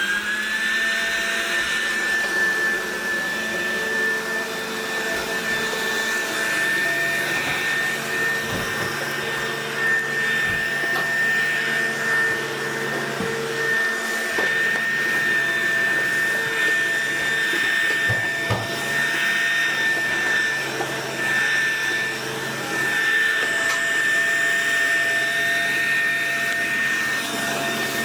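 Robot vacuum cleaner running. Its fan finishes a rising spin-up in the first second and then holds a steady high whine over the suction noise, with a few light knocks scattered through.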